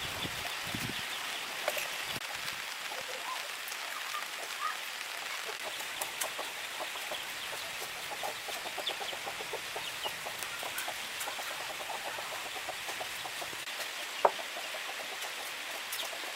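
Chickens clucking over a steady background hiss, with one sharp knock about fourteen seconds in.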